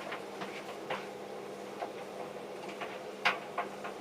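Two tumble dryers running: a steady hum with irregular clicks and knocks from the loads of jeans tumbling in the drums, one sharper knock about three seconds in.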